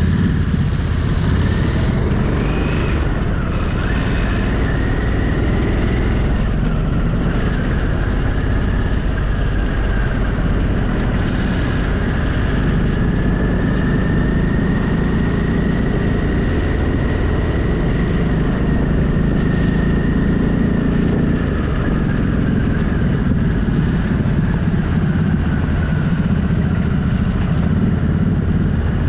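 Motorcycle engine running while riding at a steady pace, with a thin high whine that rises in the first few seconds and then holds, drifting slightly in pitch.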